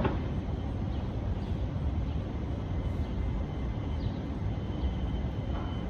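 Steady low outdoor rumble, with a faint thin tone entering near the end.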